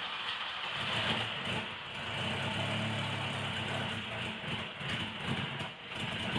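1976 Alfa Romeo Spider's twin-cam four-cylinder engine with twin carburettors, running on full choke in its first seconds after catching on a cold start. The idle is uneven, wavering in loudness and dipping briefly near the end.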